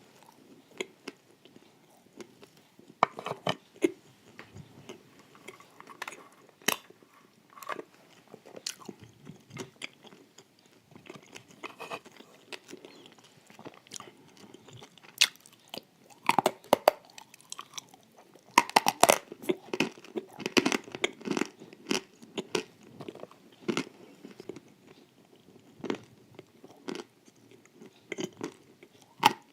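Close-up biting and chewing of crisp wafers layered with cream, with many sharp crunches and crackles over steady wet chewing, busiest about halfway through.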